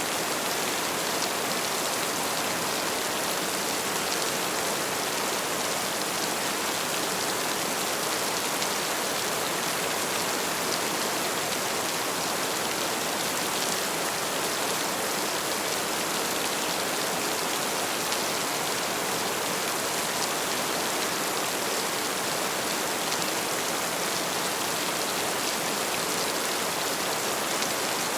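Heavy rain falling steadily: a dense, even hiss of rain with no thunder in this stretch.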